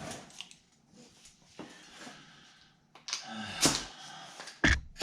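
Scattered clicks, taps and knocks of metal tools being handled in a small shop. There is a louder cluster of knocks about three seconds in and a sharp knock near the end.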